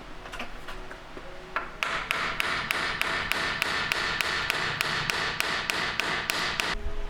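A fast, even run of sharp metallic impacts, about four a second, starting about two seconds in, lasting about five seconds and stopping suddenly.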